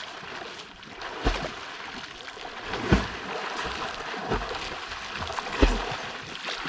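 Creek water splashing and lapping around a swimmer, with a splash about every one and a half seconds.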